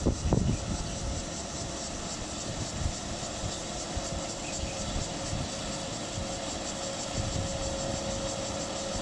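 Rice harvester running with a steady mechanical drone and irregular low rumbles; a steady whine joins in about four seconds in.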